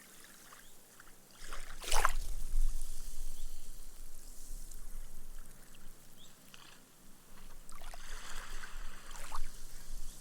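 Small, gentle waves lapping onto a sandy beach. One breaks with a sudden splash about two seconds in, then hisses as the water and foam sink into the sand. A smaller wash comes in near the end, over a low surf rumble.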